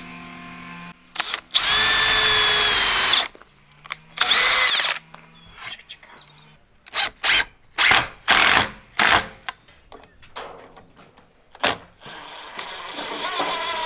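Power drill driving screws into wooden rafters: two long runs of the motor, then a quick string of short bursts.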